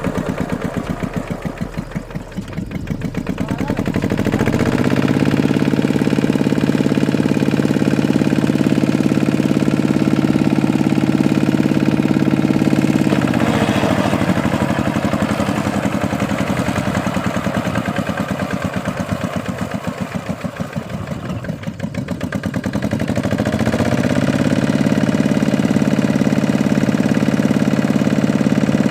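Tractor's diesel engine working a plough through a muddy paddy field: it revs up, holds high for several seconds, drops back to a slow, pulsing low speed about midway, then revs up again and holds.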